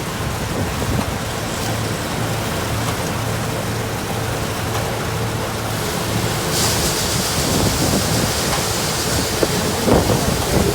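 Diesel engine of harvest machinery running steadily, a low hum under a wash of noise, with the hiss growing louder about six and a half seconds in.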